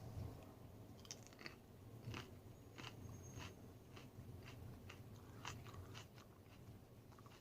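Faint crunching of a person chewing a raw Aji Rainforest pepper (a Capsicum baccatum pod): a run of short crisp clicks, about two or three a second.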